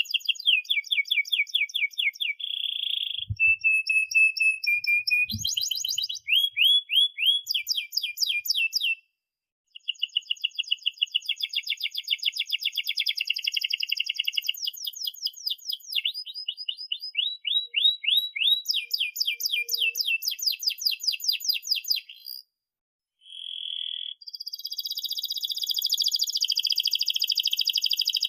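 Domestic canary singing a long song of rapid repeated chirps and fast rolling trills, broken by two short silences about nine and twenty-two seconds in.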